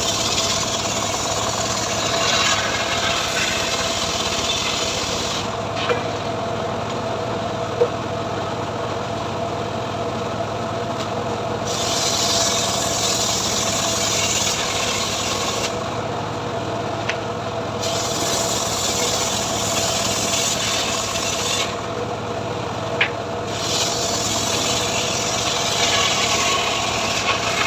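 Homemade engine-driven srekel sawmill running steadily while its blade saws through mahogany. The cutting noise comes in long stretches broken by pauses of a few seconds, the longest about six seconds in, while the engine note holds steady throughout; a few short knocks sound in between.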